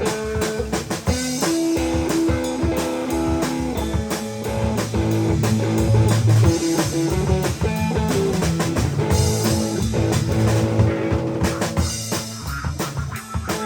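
Band playing an instrumental passage of a blues-rock song: guitar lines over a drum kit and bass.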